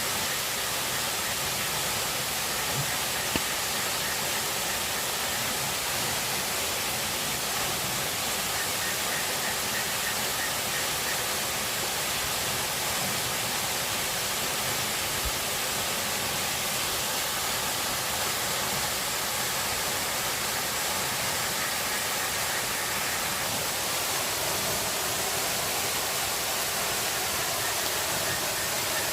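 Steady rushing of water, an even hiss that holds unchanged throughout, with a single faint tick a few seconds in.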